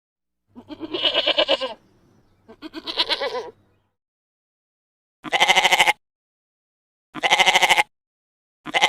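Bleating calls, five in all, each with a rapid quaver: two longer, wavering bleats in the first few seconds, then three shorter, evenly spaced ones.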